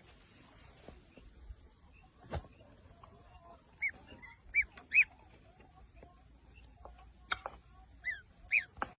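A bird giving short, arched squawking calls, three close together and then two more, with a single knock a couple of seconds in.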